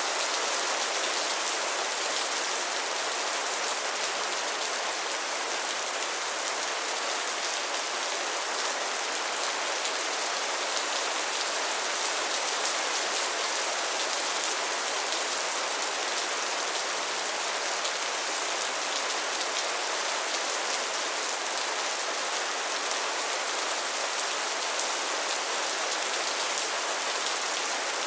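Steady rain falling, an even hiss of many drops on a surface, with no change through the stretch.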